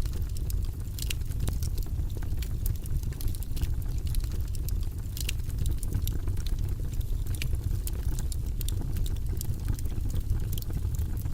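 Fire burning in a fireplace, crackling with frequent small, irregular pops over a steady low rumble.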